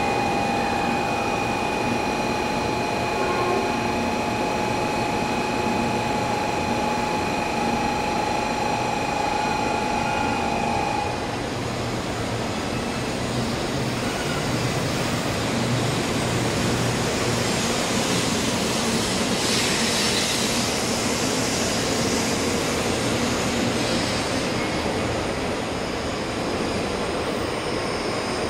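923-series Doctor Yellow Shinkansen inspection train pulling slowly out along a station platform, with a steady rumble of wheels and running gear. Steady high-pitched tones sound over it and cut off about eleven seconds in, and a brief hiss comes about two-thirds of the way through.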